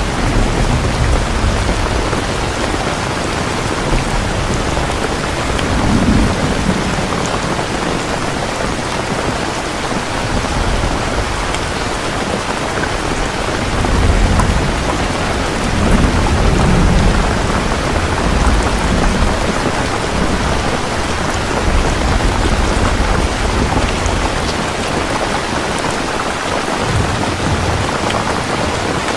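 Steady heavy rain with low rolls of thunder rumbling in and out several times.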